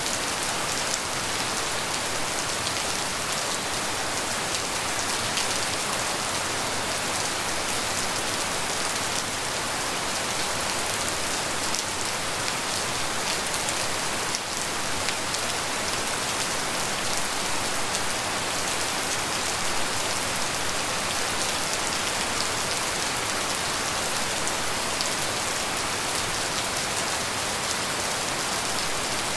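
Steady heavy tropical rain pattering on surfaces, an even hiss thick with fine drop impacts.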